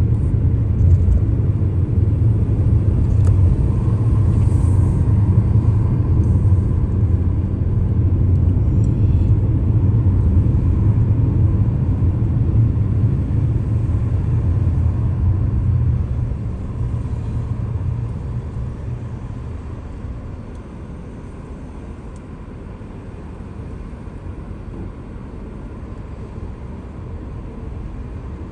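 Car on the move: a steady low rumble of engine and road noise, which eases off to a quieter level about two-thirds of the way through.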